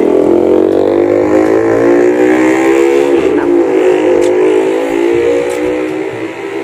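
Motorcycle engine running close by. Its pitch eases slowly down after a rev, with a small dip and recovery about three seconds in.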